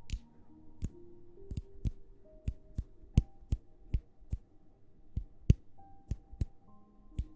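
A series of sharp, irregular taps close to the microphone, roughly two a second, over soft background music with long held notes.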